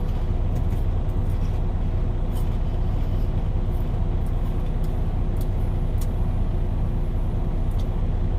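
Diesel semi-truck engine idling: a steady low drone with an even hum, with faint scattered clicks over it.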